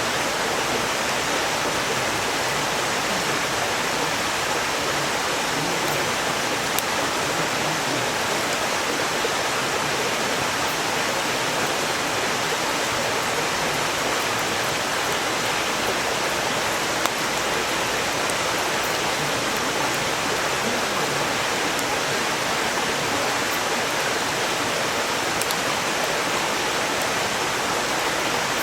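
Mountain stream rushing steadily, with a few sharp crackles from the burning firewood of a campfire.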